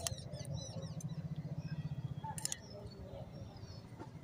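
Small birds chirping faintly, with a low rapid pulsing in the first half and a few sharp clicks, one at the start and two together about halfway through.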